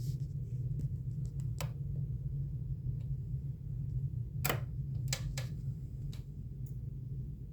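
A few sharp taps and clicks, about four of them bunched near the middle, over a steady low hum, as a cat plays with a toy bird.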